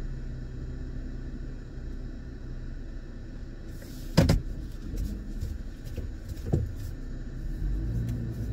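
Car engine idling, a steady low rumble heard from inside the cabin, with a sharp knock about four seconds in and a softer one about two seconds later.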